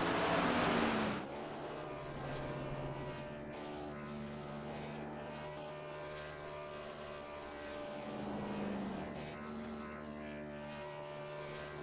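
Truck engines running steadily, with a loud rush of noise in the first second and a brief swell in pitch and level about two-thirds of the way through.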